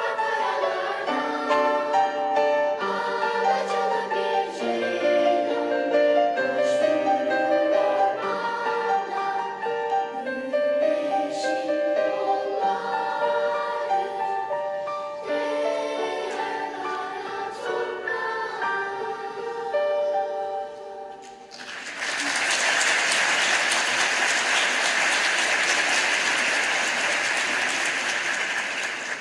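Children's choir singing in several-part harmony, the song closing about twenty seconds in. The audience then breaks into sustained applause.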